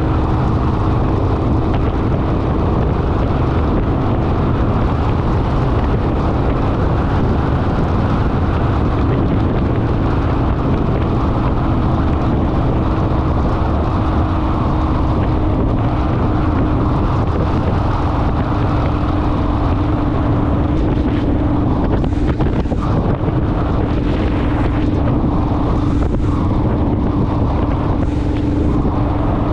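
Honda Rebel motorcycle riding at a steady cruising speed: engine running evenly under heavy wind noise on the microphone.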